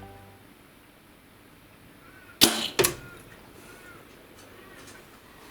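Bow shot at a rabbit: a sharp crack as the string is released, then a second sharp crack less than half a second later as the arrow strikes, a shot that misses.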